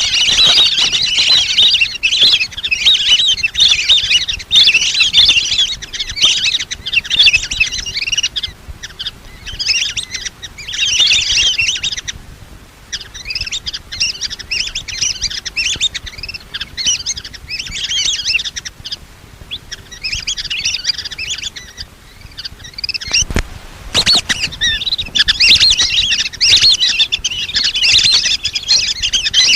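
A flock of lesser whistling ducks gives high, whistled chirping calls in dense bursts, thinning out in short lulls. There is a sharp knock about 23 seconds in.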